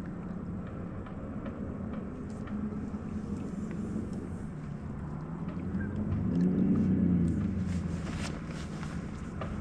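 Boat motor running steadily at trolling speed with a low hum. It rises in pitch and level about six seconds in, then falls back, and a few sharp clicks follow near the end.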